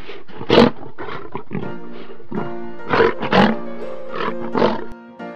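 A lion roaring in a series of short roars, about ten in five seconds, over background music.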